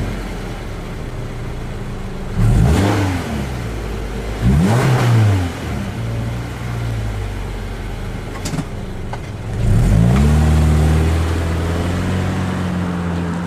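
Subaru Impreza Sport's 2.0-litre flat-four through its stock exhaust muffler: it idles, is blipped twice in quick rises and falls a few seconds in, then revs rise about ten seconds in and hold higher.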